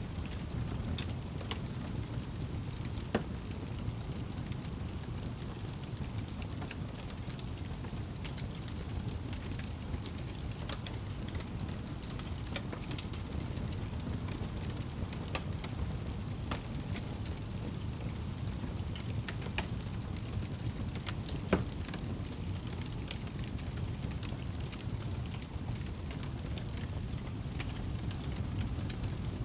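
Wood fire burning in a fireplace: a steady low rush of flames with scattered crackles and pops, one louder pop about two thirds of the way through.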